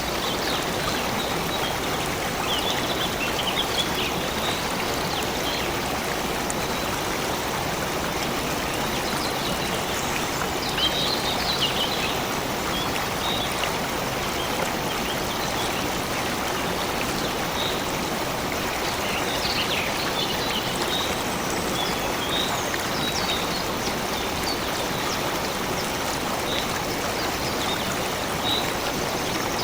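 A stream running steadily, an even rush of water, with scattered short bird chirps high above it here and there.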